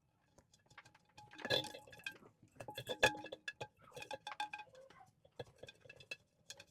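Scattered light clinks and taps on a ceramic bowl, each with a short ring, as the pump cord and parts are handled against it.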